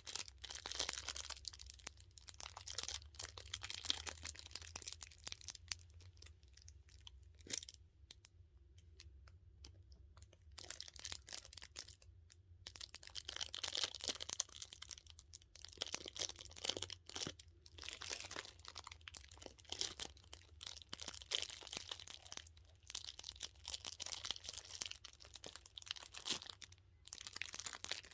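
Close-miked squeezing and crinkling of a dumpling-shaped squishy stress toy and plastic film, a dense crackle, with a short lull about eight seconds in.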